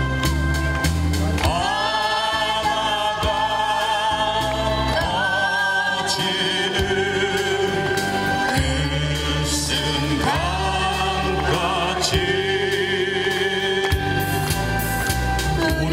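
Singing voices over backing music in a slow song, long notes held with vibrato.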